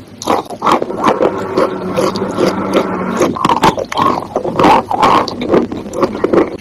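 Wet chalk being bitten and chewed: a dense run of irregular crunches and crackles.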